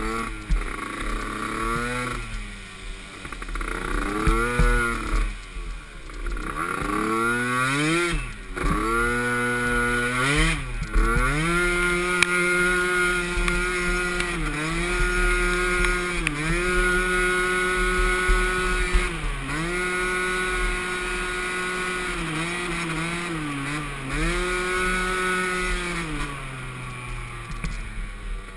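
Small youth ATV engine revving: its pitch swings up and down through the first ten seconds or so, then holds at high revs with several brief dips as the throttle is eased and reopened, settling lower near the end.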